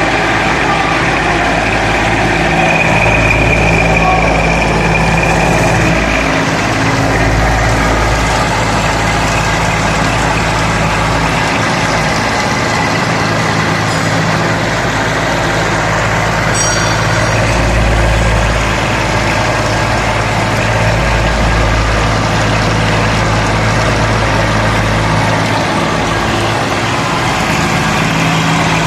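CNC milling machine running while cutting the teeth of a gear: a steady, loud machine hum, with a high whine a few seconds in.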